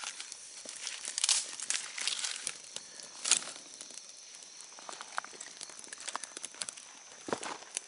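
Irregular rustling and crinkling, with a few sharp snaps, the loudest about a second and about three seconds in.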